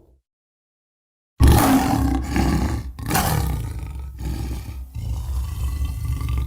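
A Tyrannosaurus rex roar sound effect: after about a second and a half of silence, a loud, deep roar starts suddenly, swells and falls back in several surges, and cuts off abruptly.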